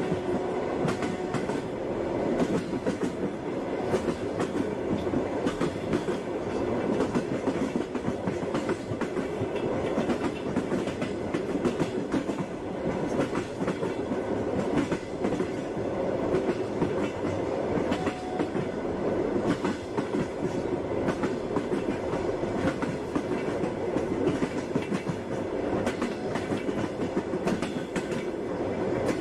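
Passenger train running steadily: wheels clacking over the rail joints above the carriage's continuous rumble.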